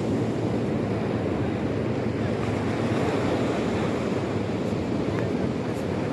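Sea surf washing steadily on the shore, a continuous low rushing noise, with wind buffeting the microphone.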